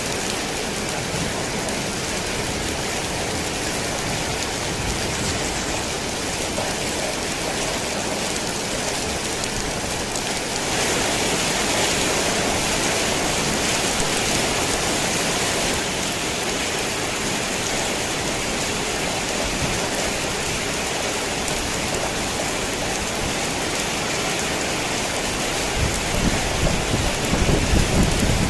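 Torrential rain falling steadily on a worn tin roof, heavier for a few seconds from about 11 seconds in. Low thunder rumbles in near the end.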